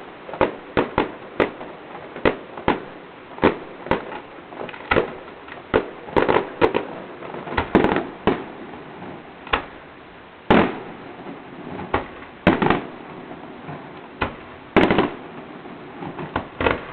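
Fireworks display going off: a quick string of sharp bangs about two a second, then tight clusters of bangs, and in the second half fewer but louder single booms a second or two apart.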